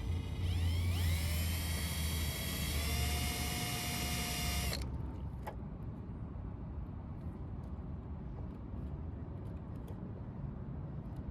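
Electric drill running: its motor whine rises as it spins up, holds steady, then cuts off suddenly about five seconds in. A single click follows, then low background hiss.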